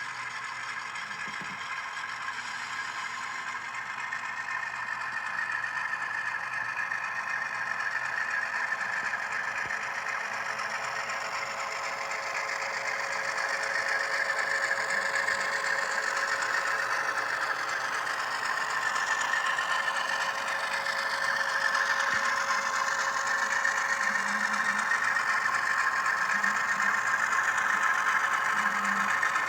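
HO scale model diesel locomotives' ESU LokSound decoders playing diesel engine sound through their small onboard speakers, with the clatter of the freight cars' wheels on the track. The sound grows steadily louder.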